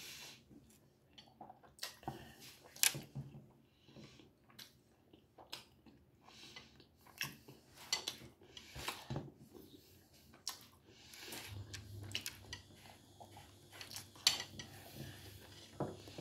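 A man chewing food close to the microphone: irregular wet mouth smacks and clicks, with occasional light knocks or clinks. A faint low hum runs through the second half.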